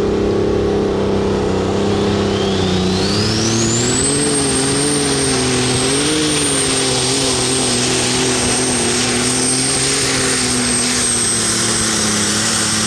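Super stock pulling tractor's turbocharged diesel engine running hard under load down the track. A high turbo whine climbs steeply about two to four seconds in, then holds steady while the engine note wavers.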